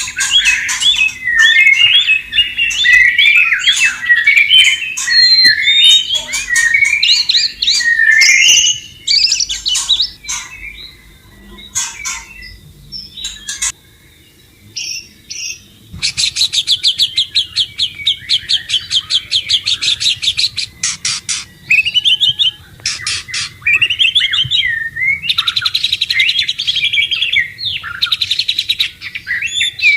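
White-rumped shama (murai batu) singing: rich, varied warbled phrases, a sparser lull of scattered notes around the middle, then fast rattling runs of rapidly repeated notes mixed with whistled phrases.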